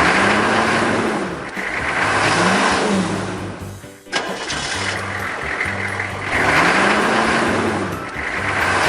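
Looped soundtrack: music mixed with an engine-like sound whose pitch rises and falls. The loop restarts about four seconds in after a brief drop.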